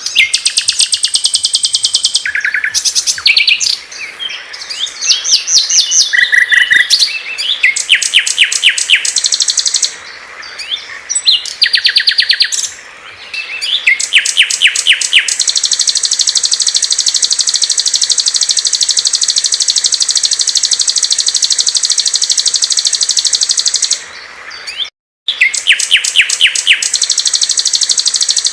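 Small songbirds singing loud, rapid, high-pitched trills and chattering phrases. Different songs follow one another with abrupt changes, and a long unbroken trill runs in the middle with a short break after it.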